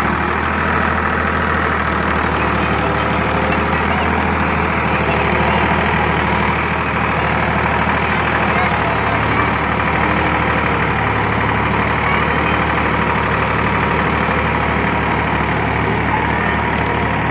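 Tractor engine running steadily at a constant pace, with a low even hum and no revving.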